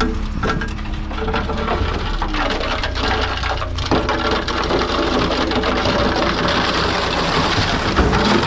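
Truck engine running steadily, its low rumble under a dense rattling hiss.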